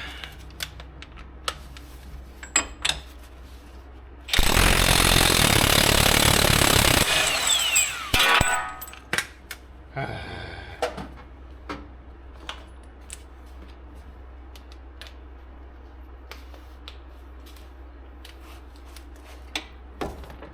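Impact wrench hammering for about three seconds, then a second short burst and a brief falling whine as it winds down, breaking loose a bolt during the wheel bearing removal. Scattered clicks and clanks of tools handled on either side.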